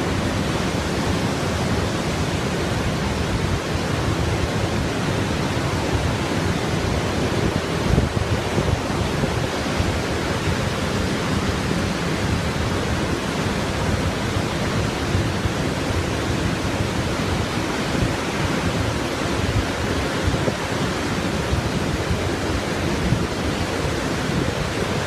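Steady rush of Montmorency Falls, a large waterfall, heard up close as a constant, even roar of falling water.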